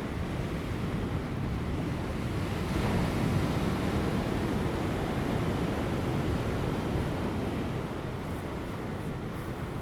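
Large ocean waves crashing on rocks just before high tide: a continuous rushing surf that swells about three seconds in and eases a little near the end, with light wind.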